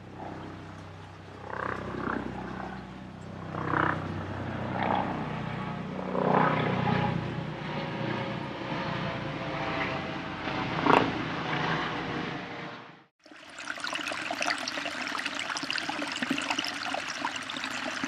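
A low droning hum with several louder, rougher swells, then an abrupt cut about two-thirds of the way in to a steady rush of running water.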